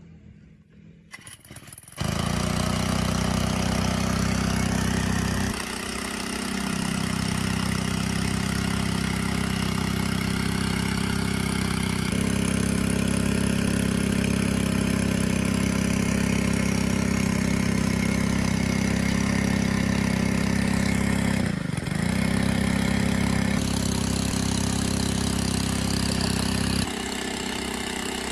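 Restored 4-stroke Rato engine on a 1.5-inch gasoline water pump running steadily. The sound comes in suddenly about two seconds in, dips briefly about three-quarters of the way through, and gets quieter near the end.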